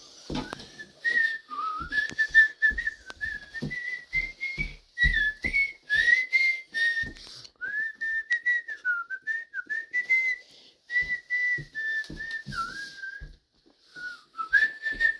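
A person whistling a wavering tune, held almost without a break for about thirteen seconds, stopping briefly and starting again near the end. Frequent sharp taps or knocks sound along with it.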